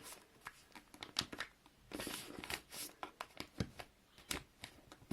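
A sheet of paper being folded and creased by hand: scattered crisp rustles and crinkles, with a few sharp clicks as the fold is pressed flat.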